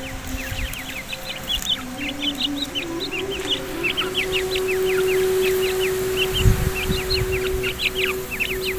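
A flock of birds chirping: a dense, continuous chorus of short, high, falling chirps. Under it runs a steady held musical tone, and there are a few low thumps about six and a half seconds in.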